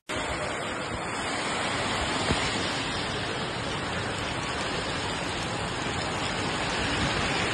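Heavy rain pouring down in strong wind: a steady, dense rushing hiss, with a single brief knock about two seconds in.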